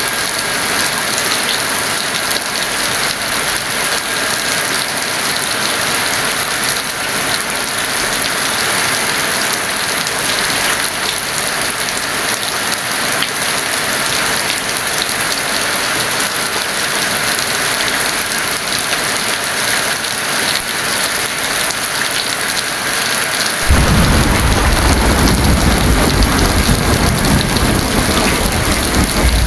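Heavy rain falling as a steady, dense hiss. Near the end, a deep rumble of thunder sets in suddenly under the rain and keeps rolling.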